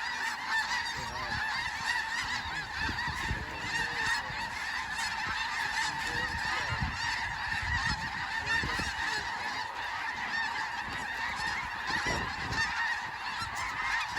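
Large flock of snow geese calling, a continuous din of many overlapping honks.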